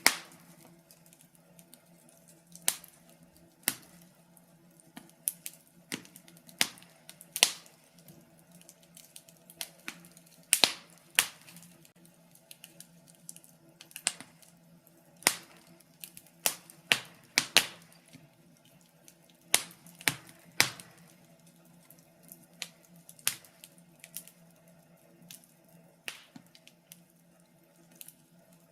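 Wood fire crackling in a fireplace: irregular sharp pops and snaps of burning logs, several at a time in clusters, over a faint steady low hum.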